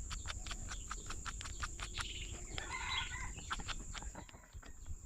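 Rapid, even ticking at about seven a second, with a short clucking animal call about halfway through.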